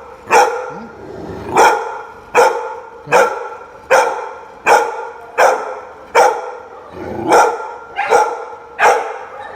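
A dog barking over and over at a steady pace, about four barks every three seconds.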